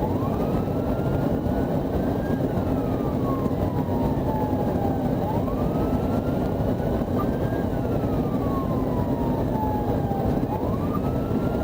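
Police siren on the wail setting, rising and then slowly falling in pitch, cycling about every five seconds, over steady vehicle engine and road noise.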